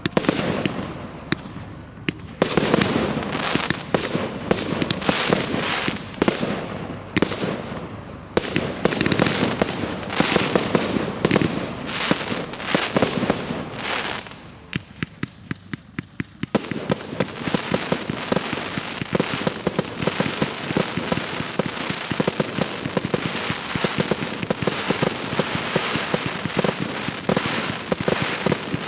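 Professional display fireworks: a rapid run of loud bangs from bursting shells, a brief lull with a few scattered pops just past halfway, then dense, continuous crackling to the end.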